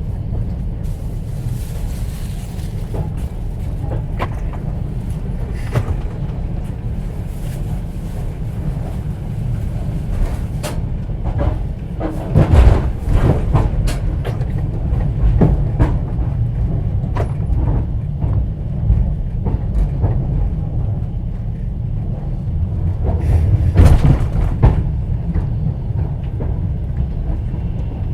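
Inside a moving platzkart sleeper carriage: the train's steady low running rumble, with the wheels knocking over rail joints. The knocks come in louder clusters about halfway through and again near the end.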